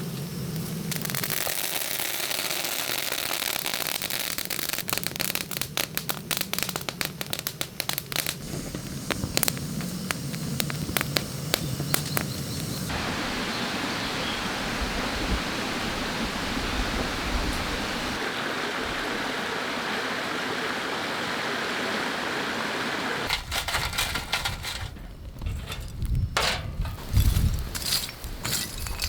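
Wood fire crackling with sharp pops over a steady hiss as red snow crab grills over it. Near the end, low knocks and clicks come in.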